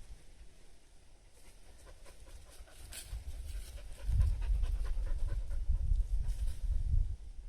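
Border collie panting close by, getting louder about halfway through and easing off near the end.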